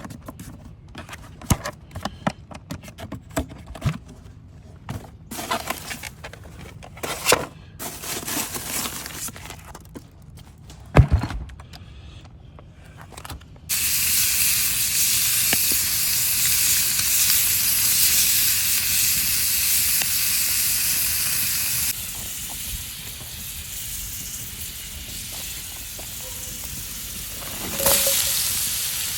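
Clicks and knocks of cooking gear being handled, then, about halfway through, food frying in a pan: a sizzle that starts suddenly and loud, and settles to a quieter steady sizzle about eight seconds later.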